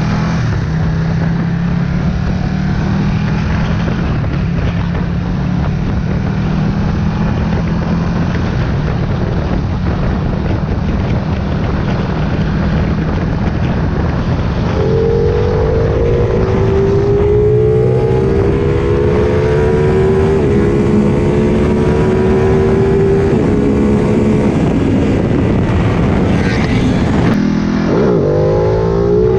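Ducati Panigale 959's twin-cylinder engine running loudly through a Danmoto slip-on exhaust with stainless tubing and titanium mufflers, its catalytic converters deleted. The note is steady at first, shifts to a higher engine tone about halfway through, and rises quickly near the end as the engine revs up.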